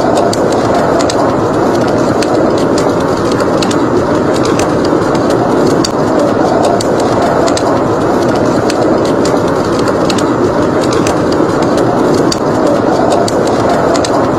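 Blizzard wind blowing in a steady roar, with a wood fire crackling over it in frequent sharp little pops and snaps.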